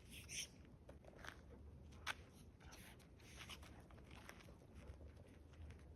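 Near silence with faint scattered clicks and rustles, and one sharper click about two seconds in.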